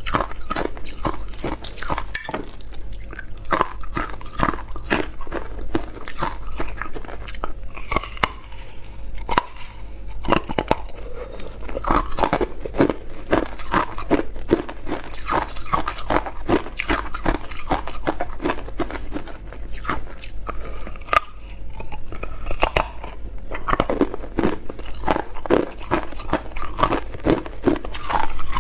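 Hard clear ice being bitten and chewed: dense, rapid crunching and cracking of the ice between the teeth, going on without a break.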